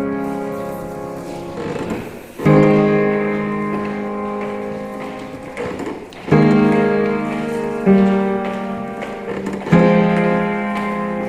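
Slow solo piano music: sustained chords struck four times, each ringing and slowly fading before the next.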